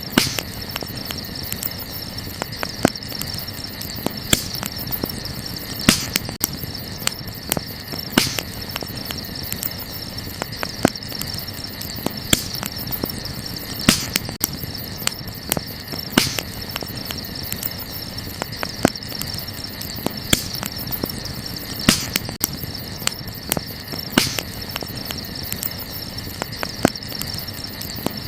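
Wood campfire crackling, with many small ticks and a louder snap every couple of seconds, over a steady high chorus of crickets chirping.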